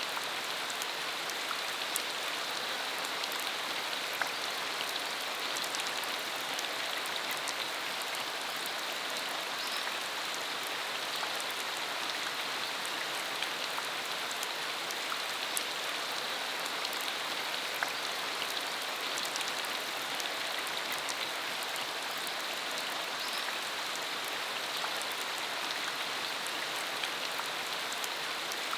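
Steady rain falling on a dirt country road, an even hiss with scattered sharp drop ticks.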